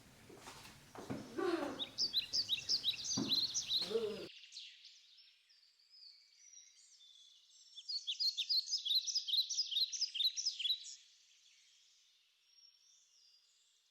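A small bird chirping, rapid runs of short high notes in two bouts, the second starting about eight seconds in.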